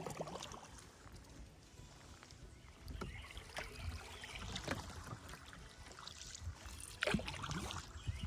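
Kayak paddle strokes dipping and splashing in river water at an irregular pace, about one every second or so, over a low rumble.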